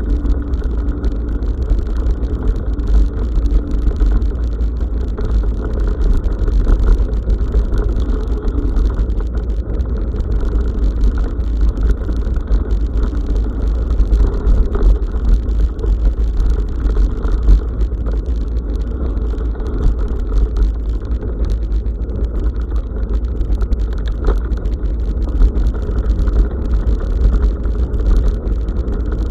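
Steady low rumble of wind on an action camera's microphone, mixed with continuous rattling and clicking from a bicycle riding over a rough forest track.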